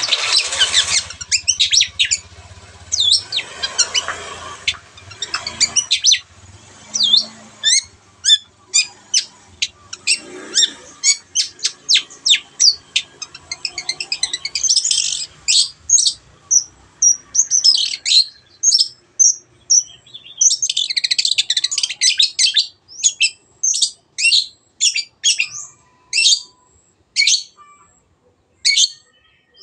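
Long-tailed shrike (cendet) singing: a fast series of short, sharp, high-pitched chirps broken by several dense chattering runs.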